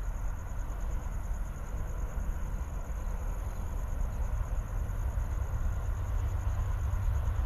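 Amtrak passenger train running at speed: a steady low rumble of wheels on rail that slowly grows louder.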